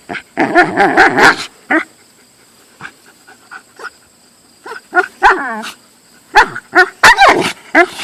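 Siberian husky barking and giving wavering, whining yowls in short bursts, with a pause of a few seconds in the middle: the dog guarding her graham cracker.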